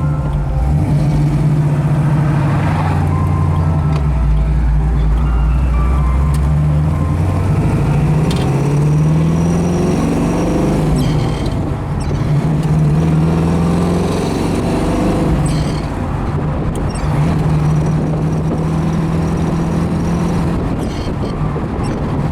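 A 1968 Camaro's 383 cubic-inch V8 pulls up through the gears of its four-speed manual. The engine note rises with revs and drops back at each shift, several times over.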